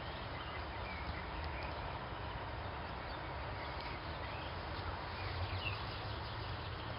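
Outdoor ambience: a steady low rumble with a few faint, short small-bird chirps scattered through it.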